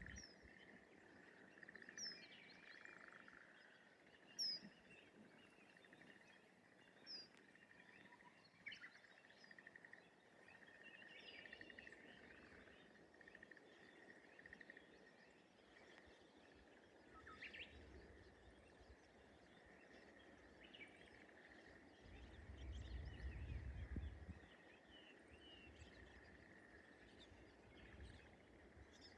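Faint rural rice-paddy ambience: a steady high-pitched animal chorus, with short bird chirps scattered through it. A low rumble swells and fades about two-thirds of the way through.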